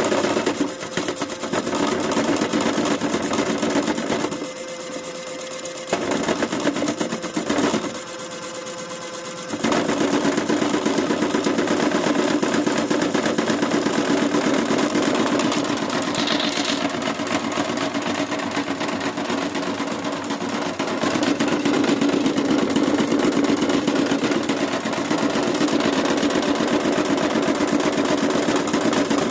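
AEG washing machine running hard with a fast, continuous rattling and knocking, the kind of pounding of a drum being run to destruction. It drops quieter twice for a second or two, then picks up again and keeps knocking.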